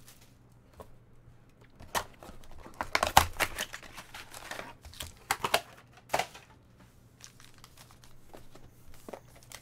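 Trading card packs and cards being handled: scattered crinkling and rustling of wrappers and card stock, with a few sharper snaps between about two and six seconds in.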